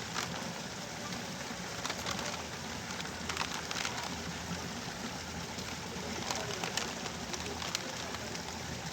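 Fungicide and insecticide mix being stirred in water for a sprayer, a steady wet swish with a few light splashes.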